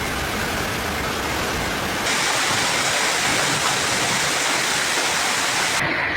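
Torrential rain pouring down, a steady rushing hiss that changes abruptly in tone about two seconds in and again near the end.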